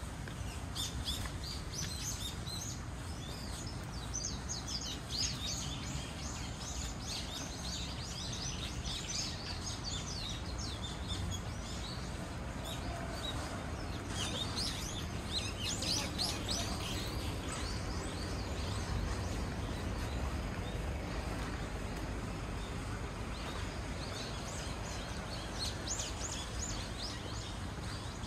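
Small birds chirping in busy clusters of quick, high calls that come and go, over a steady low background rumble.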